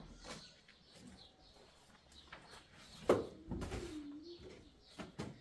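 Birds chirping, with a sharp knock about three seconds in followed by a low, wavering call, and two short clicks near the end.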